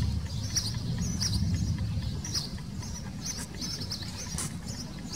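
Small birds chirping, many short high calls scattered throughout, over a low rumble that is strongest in the first couple of seconds.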